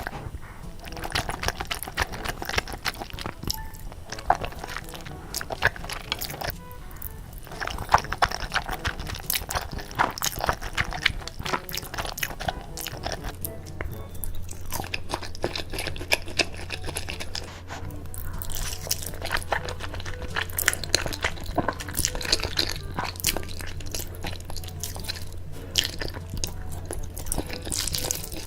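Close-miked eating sounds: a person chewing and biting food, with dense, irregular crisp crunching clicks. A low steady hum comes in about halfway through.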